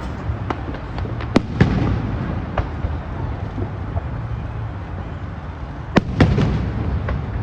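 Fireworks shells bursting overhead: a run of sharp bangs at uneven intervals, the loudest coming in close pairs about a second and a half in and again about six seconds in, over a steady low rumble.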